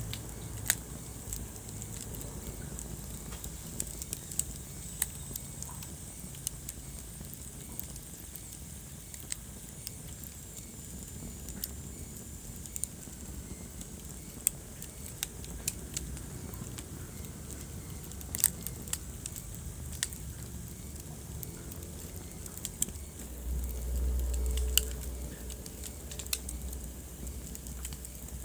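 Wood fire in a fireplace crackling, with irregular sharp snaps and pops over a steady low rumble of the flames; a brief louder low rumble swells up near the end.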